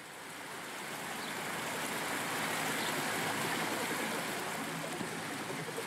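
Rushing water, like a stream or waterfall, fading in and then running steadily.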